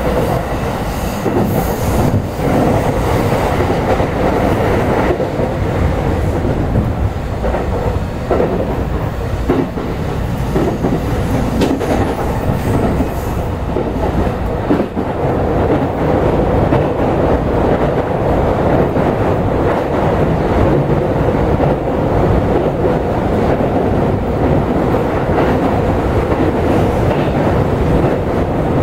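Interior running noise of a JR East E217-series electric train at speed: steady rumble of wheels on rail with a steady hum. Repeated clicks and knocks from the wheels crossing rail joints come mostly in the first half.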